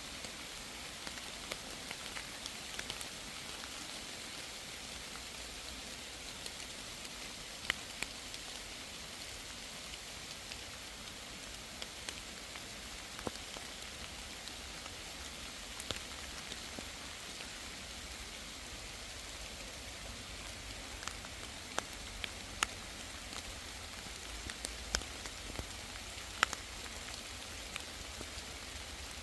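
Steady rain falling in a forest: a soft, even hiss with scattered sharp ticks of single drops striking.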